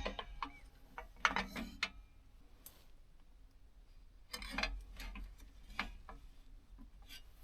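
A few short clicks and rattles of small objects being handled, in scattered bursts with quiet gaps between.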